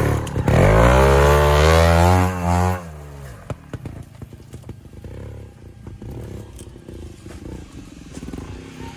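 Trials motorcycle engine revving hard for about two seconds, its pitch climbing and then holding, before dropping off abruptly to a low, quiet running with scattered clicks and knocks.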